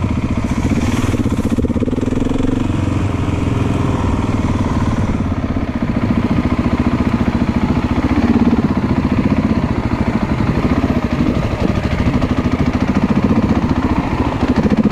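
Motorcycle engine running on a trail ride, its firing pulsing steadily. It gets a little louder about six seconds in as the throttle opens.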